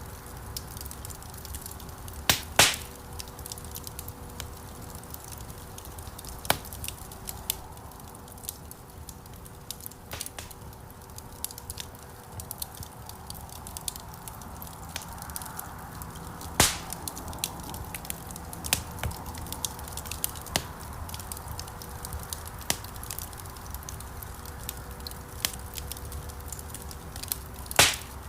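Wood fire crackling in a stone fireplace: irregular sharp pops and snaps over a low steady rumble of the flames. The loudest pops come about two and a half seconds in, around the middle, and just before the end.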